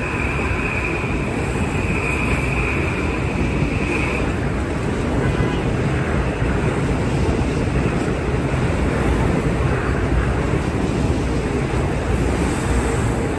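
Kawasaki M8 electric commuter train rolling past close by: a steady rush of wheel and air noise, with a high steady whine that fades out about four seconds in.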